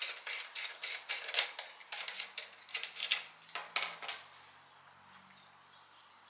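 Small metal tools and hardware clinking and clicking against each other in quick, uneven strokes, about four a second. They stop about four seconds in, with the loudest clinks just before.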